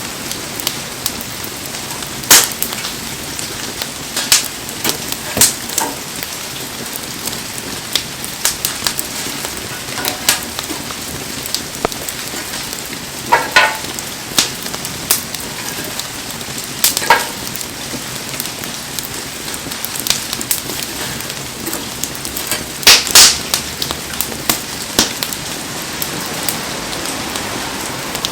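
Wood campfire burning in heavy rain: a steady hiss of rain with scattered sharp cracks and pops from the fire, a loud cluster of them near the end.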